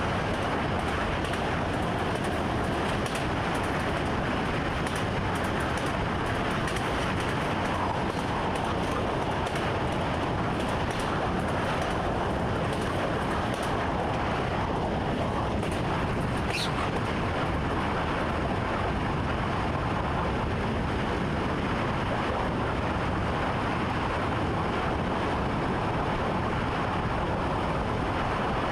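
A train running along the track, heard from inside the driver's cab: a steady rolling rumble and rush. About halfway through there is one brief sharp high click.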